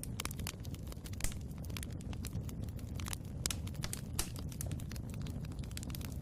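Wood fire crackling in a fireplace: a dense, irregular scatter of sharp snaps and pops over a steady low rumble of the flames, with one louder snap about a second in.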